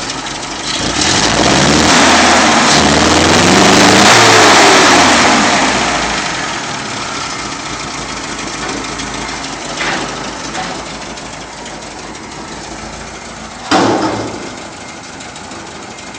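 Datsun car engine revved up smoothly and let fall back to idle, then idling, with a short blip about ten seconds in and a sudden loud sharp burst near the end. The owner says the engine, which had a misfire, is running better.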